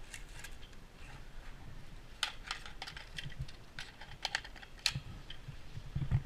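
A run of sharp, irregular clicks and snaps, clustered between about two and five seconds in.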